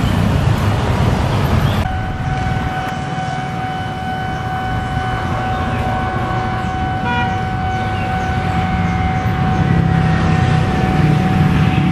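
Tokyu Series 8500 electric commuter train at a rail level crossing: a low rumble throughout, with a steady high tone starting about two seconds in and holding on, and a short toot about halfway through.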